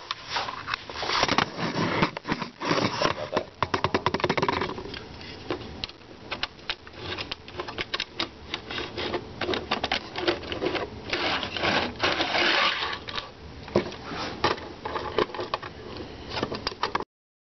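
HO scale model freight cars being tested, a rapid, irregular clicking and rattling of small plastic and metal parts. The sound cuts off suddenly near the end.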